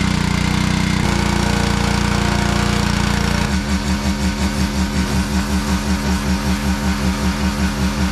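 Small petrol engine, likely a gas pressure washer's, running steadily, then going over to a rhythmic pulsing of about five beats a second from a few seconds in.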